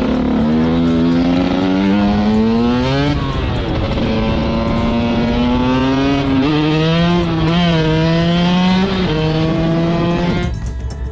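Motorcycle engine accelerating hard through the gears: the pitch climbs, drops back at each upshift about three times, and the sound cuts away sharply near the end.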